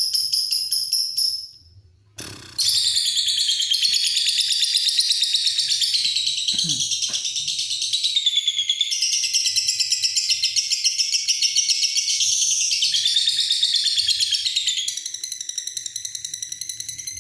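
Lovebird giving its long 'ngekek' chatter: a rapid, high-pitched trill of fast pulses that runs on without a break. It follows a short high call and a brief pause about two seconds in, and softens slightly near the end.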